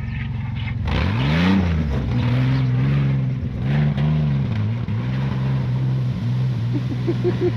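GMC Jimmy mud truck's engine revving hard under load while trying to climb a bank. The revs rise about a second in, then are held high, dipping and rising again.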